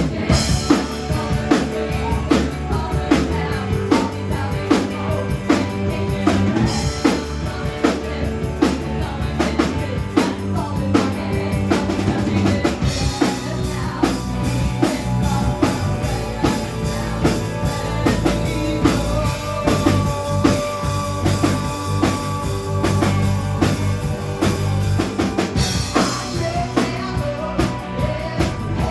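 Rock band playing an instrumental passage: the drum kit keeps a fast, steady beat of kick and snare under bass and electric guitars, with no vocals.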